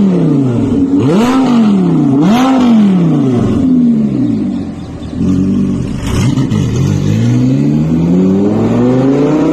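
Audi R8's V10 engine through a Kreissieg F1 aftermarket exhaust, revved loudly: two quick blips about a second apart, then the revs fall back and hang low before a long, steady climb in pitch near the end.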